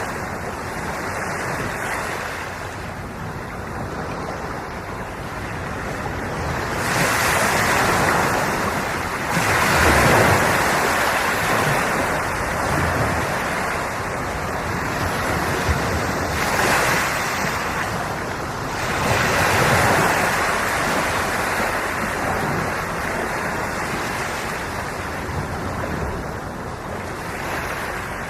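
Ocean waves washing onto the shore, the surf swelling and ebbing in slow surges several seconds apart.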